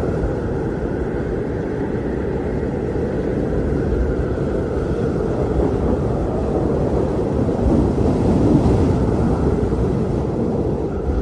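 Blizzard wind blowing steadily as a low, dense rush, swelling a little about eight seconds in.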